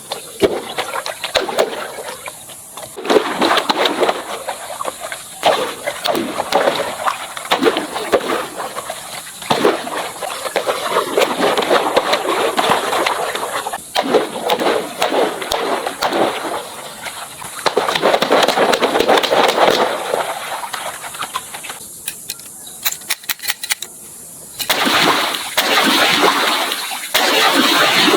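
Water gushing and splashing in an animation's sound effects, rising and falling in waves with many small sharp splats.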